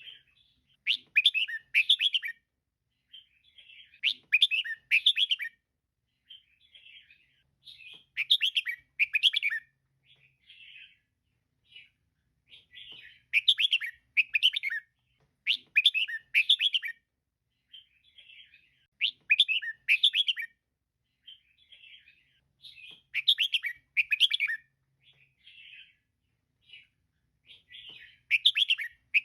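Female red-whiskered bulbul calling: short, bright chattering phrases repeated every three to four seconds, with softer single notes in between.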